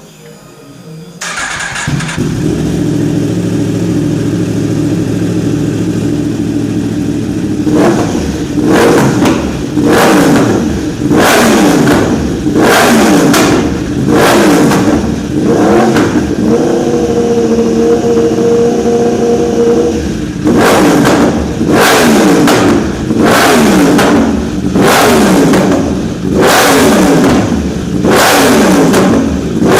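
2015 Yamaha R1's crossplane inline-four through an Akrapovic decat link pipe and slip-on exhaust, with no catalytic converter: it starts about a second in, idles, then is revved again and again in sharp rising-and-falling blips, with one steady held rev in the middle. Really deafening, far too loud for a UK track day.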